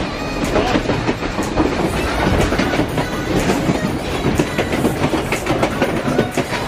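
Passenger train clattering along the rails: wheels clicking over rail joints and the carriage rattling and knocking on a bumpy ride, under a continuous loud rumble.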